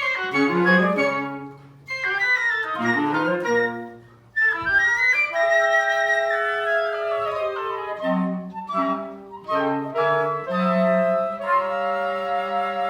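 Woodwinds and cello playing a classical chamber piece: quick falling runs of notes at first, a short break, then long held chords near the end.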